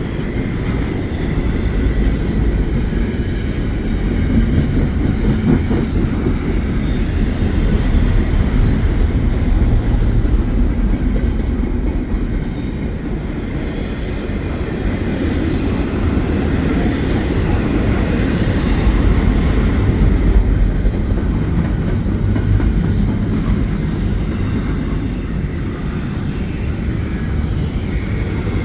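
Double-stack container freight train rolling past, a steady rumble of steel wheels on the rails that swells and eases a little as the cars go by.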